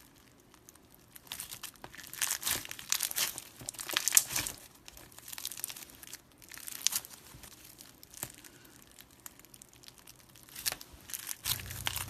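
Slime being squeezed and worked by hand, giving irregular clusters of crackling and crinkling with short quieter gaps between them. A low steady hum comes in near the end.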